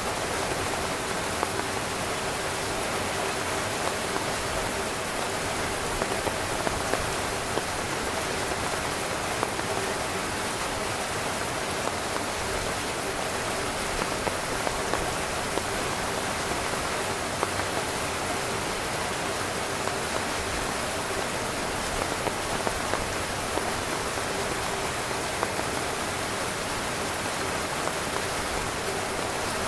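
Steady rain falling on a camping tent, an even hiss with the odd louder drop standing out now and then.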